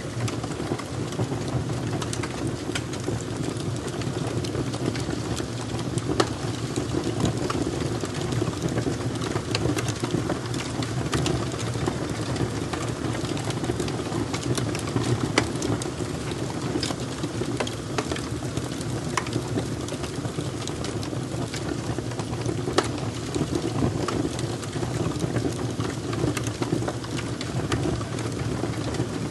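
A fire crackling: a steady low rumbling hiss with many sharp pops and snaps scattered irregularly through it.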